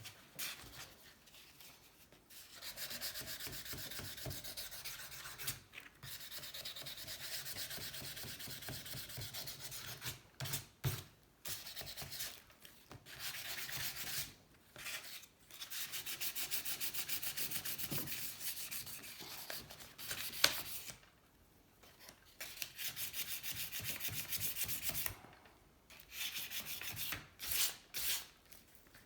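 Hand sanding with 600-grit sandpaper on a sanding block: rapid, even back-and-forth strokes in long runs, broken by several short pauses, with one sharp knock about two-thirds of the way through.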